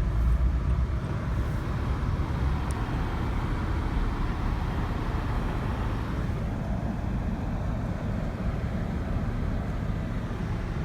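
Car driving, a steady low road and engine rumble.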